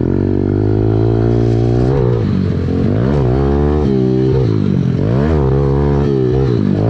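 Dirt bike engine running close by, its pitch rising and falling again and again as the throttle is worked, with several sharp revs in the second half.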